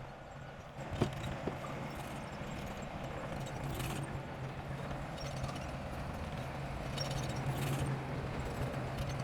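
Heavy earthmoving machinery's diesel engine running steadily, with a sharp metallic knock about a second in and a lighter one just after.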